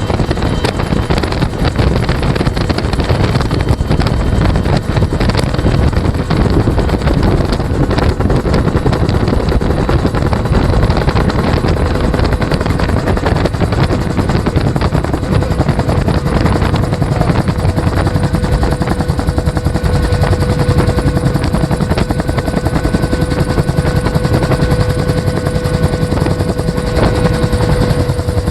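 Bell UH-1 Huey helicopter in flight, its two-blade main rotor beating fast and steadily over the turbine engine, heard from the open gunner's seat. A steady whine grows clearer about halfway through.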